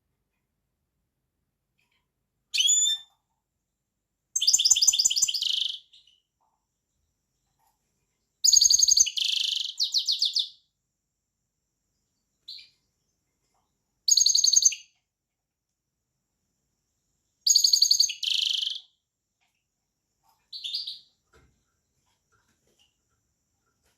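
A finch singing in short, high-pitched warbled phrases, about seven of them, each a second or two long with brief silences between.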